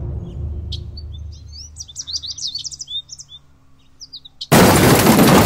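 Birds chirping in a quick run of short, high, up-and-down chirps while a low noise fades out. About four and a half seconds in, a sudden loud burst of noise cuts in.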